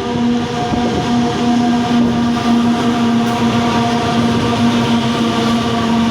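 Coal train passing at close range: a steady rush of wagon wheels on the rails, with a constant droning tone over it.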